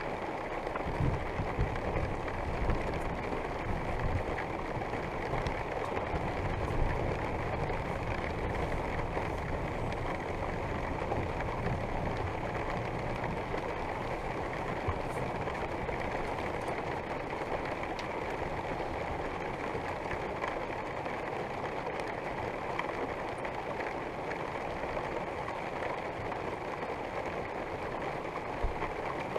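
Food sizzling steadily in a frying pan, with a few low knocks from handling the pan in the first several seconds.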